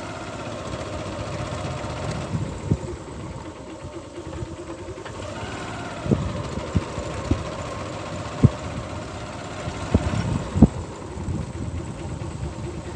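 A small vehicle's engine running steadily, with several sharp knocks scattered through.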